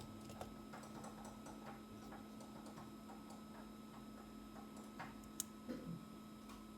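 Faint, irregular light ticking and a few sharper small clicks, typical of metal tools handling a tiny part during CPU reballing, over a steady electrical hum from bench equipment.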